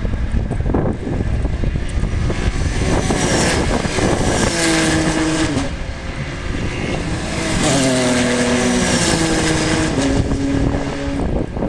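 Racing cars passing at speed on a circuit, their engine notes stepping in pitch as they change gear, with several cars heard one after another.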